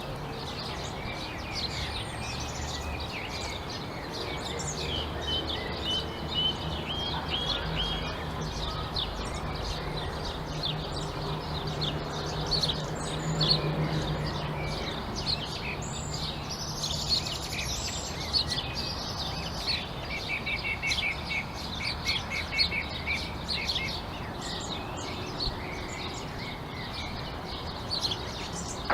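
A chorus of small birds chirping: many short, high calls overlapping, with a quick run of repeated notes about two-thirds of the way through. A steady low hum runs underneath.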